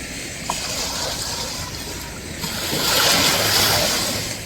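Ocean waves breaking and washing in, a rushing hiss that swells to a peak about three seconds in and then draws back.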